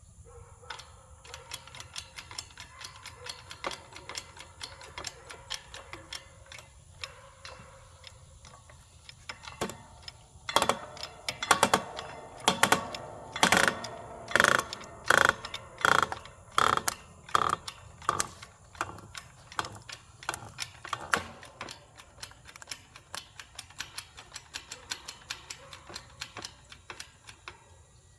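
Hand-pumped hydraulic wood splitter built from an engine hoist at work on a log: a fast run of small clicks and ticks, with a stretch of louder, sharper cracks coming a little under twice a second through the middle.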